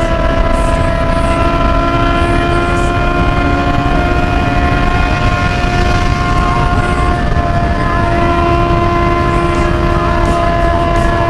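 Honda Hornet's inline-four engine with an open 4-into-1 exhaust, held at high revs at a steady high cruising speed, making a steady high-pitched drone. Heavy wind rush on the microphone runs under it.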